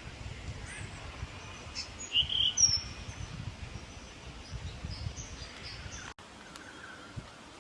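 Small birds calling with short, high chips and twitters, the loudest a brief burst about two seconds in, over a low rumble that cuts off abruptly about six seconds in.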